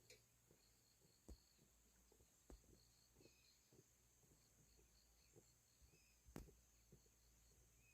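Near silence: faint outdoor ambience with a steady high hiss and rows of short, faint, high-pitched chirps. Scattered faint ticks, one a little louder about six seconds in.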